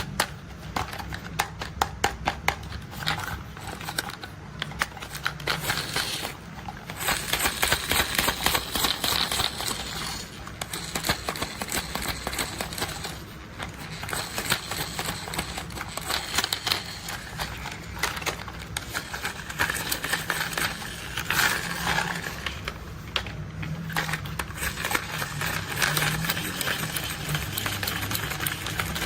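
Plastic toy construction vehicles being tapped and rolled by hand: a continuous dense run of quick clicks and taps.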